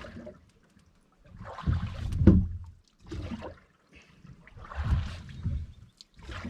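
Oars of a rowboat dipping and pulling through calm lake water, in repeated stroke surges about every one and a half to two seconds, with a sharp knock a little over two seconds in.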